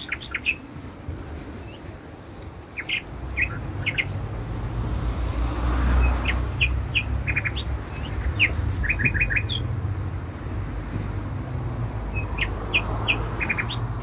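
Small birds chirping in short clusters every few seconds, over a steady low rumble that swells about halfway through.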